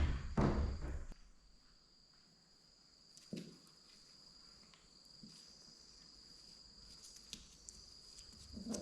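Insects trilling: a steady, thin, high-pitched drone with a few faint ticks over it. In the first second there are louder thumps and rustling.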